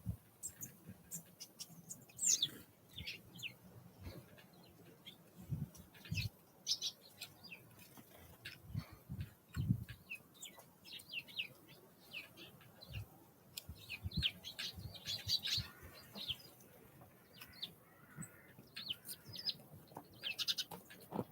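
Small wild songbirds making many short, high chirps and calls scattered throughout, with a few brief low thumps in between.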